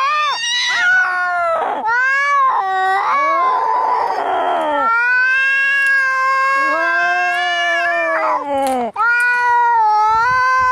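Angry cats caterwauling in a fight: long, drawn-out yowls that waver up and down in pitch, two voices overlapping at times, with a hiss about four seconds in.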